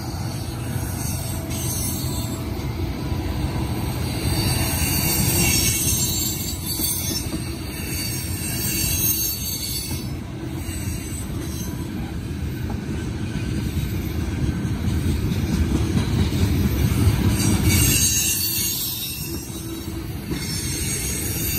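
Empty black tank cars of a CSX freight train rolling past: continuous wheel-on-rail noise with a low rumble, growing louder about three-quarters of the way through and easing off near the end.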